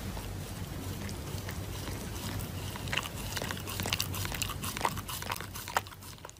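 Shiba Inu chewing and tearing at a paper face mask: scattered small crackles and snaps over a steady low hiss, coming thicker after about two and a half seconds.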